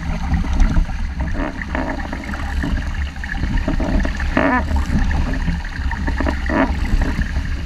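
Strong wind buffeting the microphone in a deep rumble, over the rush and splash of water along the hull of a 470 sailing dinghy going fast in 5–6 Beaufort wind.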